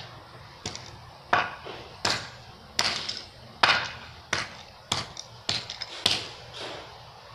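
A toy race car being smashed with repeated sharp blows, about ten hits at an even pace of roughly one every 0.7 seconds.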